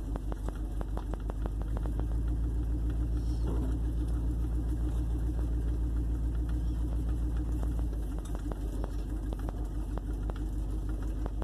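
1958 Plymouth Suburban's engine running while driving, heard from inside the cabin, loud because the exhaust dumps straight off the Y pipe: a steady low rumble that eases a little about eight seconds in.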